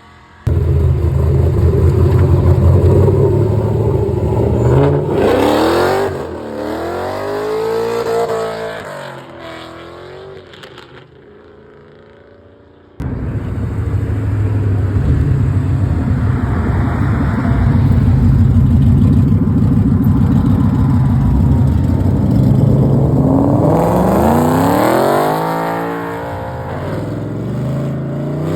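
Car engines revving hard and accelerating away at full throttle, their pitch sweeping up steeply as they pull out. This happens twice, each time cutting in abruptly, about half a second in and again about 13 seconds in.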